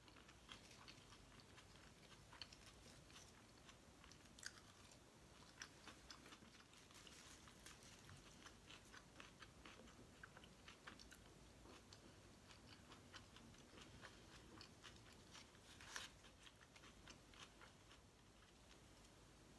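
Faint chewing of a roast duck pancake wrap, with scattered small mouth clicks and crunches, and a couple of sharper clicks.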